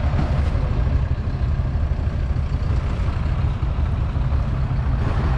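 Case International Harvester 956 XL tractor's 5.9-litre six-cylinder diesel engine running steadily.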